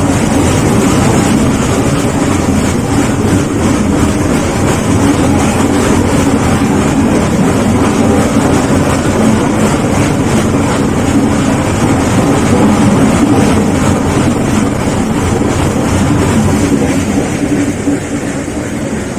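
Nilgiri Mountain Railway toy train running: a steady, loud rumble of the coach and wheels on the track, easing slightly near the end.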